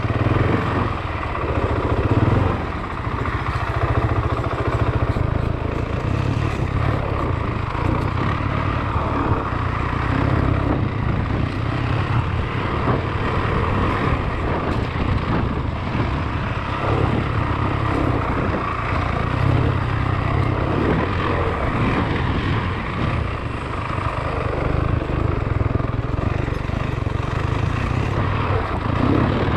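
Motorcycle engine running steadily while riding, holding an even pace with small rises and falls in loudness.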